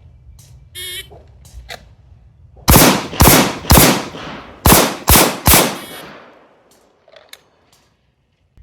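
A shot timer's start beep, then six gunshots fired in two quick strings of three with a pause of about a second between them.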